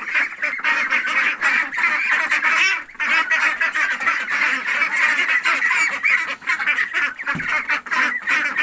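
A flock of domestic poultry calling loudly all at once, many overlapping calls without pause as the hungry birds crowd toward their morning feed.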